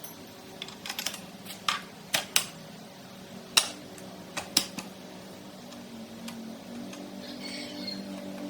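A series of about a dozen sharp clicks and taps in the first five seconds, some in quick pairs, over a low steady hum.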